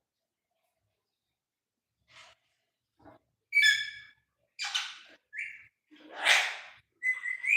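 A pet parrot making a run of short calls: pitched whistles and harsher squawks, starting about two seconds in.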